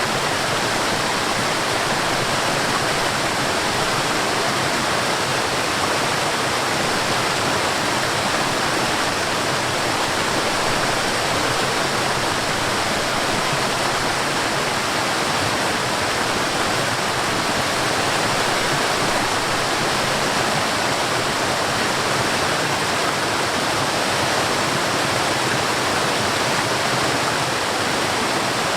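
Forest waterfall: water falling and rushing in a steady, unbroken hiss, with no changes.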